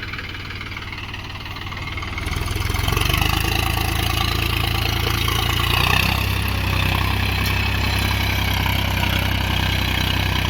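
Mahindra Yuvo 415 DI tractor's four-cylinder diesel engine running, getting louder about two seconds in as it works harder hauling a fully loaded sand trolley, then holding steady.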